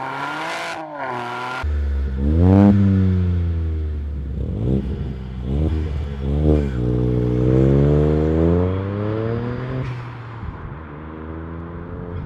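Three-cylinder car engine being revved: several short blips of the throttle, then one longer rev that climbs and falls back to idle. The first second and a half is a different, higher engine note that cuts off abruptly.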